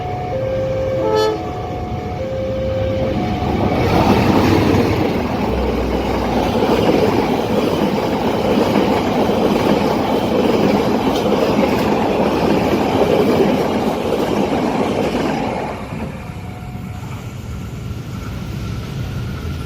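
A two-note warning tone alternating between a lower and a higher pitch, then a train passing at speed for about twelve seconds, its noise dropping away suddenly near the end.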